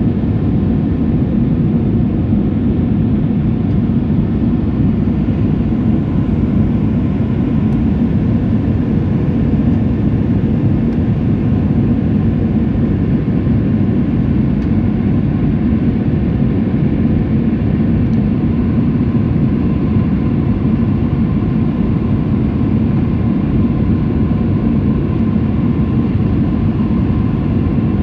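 Steady engine and airflow noise of an Airbus A319 heard from inside the passenger cabin, a constant low rumble with a faint steady whine above it.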